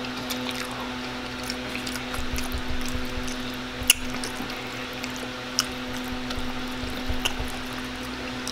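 Close-up wet mouth sounds of spaghetti being slurped and chewed, with a few sharp clicks, the loudest about four seconds in, over a steady low hum.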